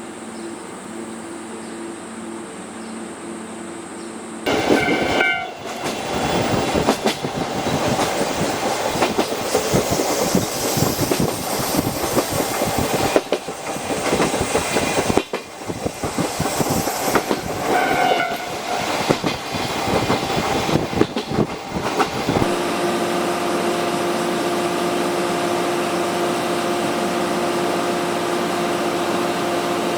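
Running noise of a locomotive-hauled passenger coach on the move. A loud rushing roar with rail clatter sets in suddenly a few seconds in, with a short horn sound at its start and another one later. The roar cuts off abruptly, leaving a steady hum for the last several seconds.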